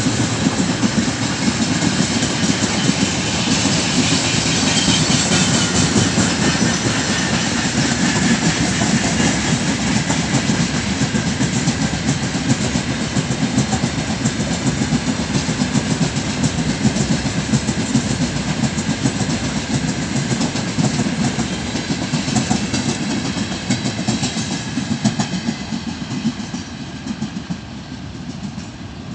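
Freight train wagons rolling past close by: a steady rumble with the clatter of steel wheels over rail joints. It fades toward the end as the last wagon passes and the train draws away.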